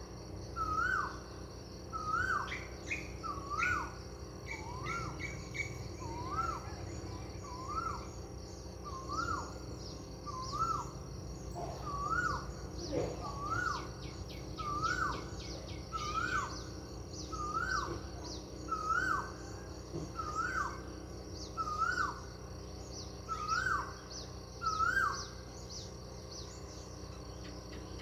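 A bird calling over and over, a short dipping-then-rising note about once a second, stopping near the end. Other birds chirp in the background over a steady high insect trill.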